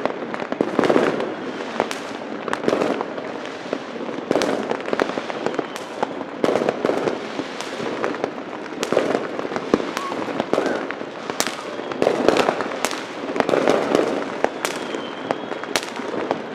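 Many fireworks and firecrackers going off: sharp bangs at irregular intervals, several close together at times, over a constant rolling din of more distant bursts.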